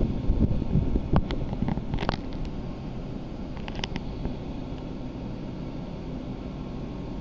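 Typhoon wind buffeting the microphone as a low, rumbling roar, gusting harder in the first two seconds and then steadier. A few sharp ticks come through about one to two seconds in and again around four seconds.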